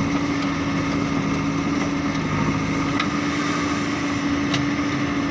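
Engine running steadily at a constant speed, with an even droning note.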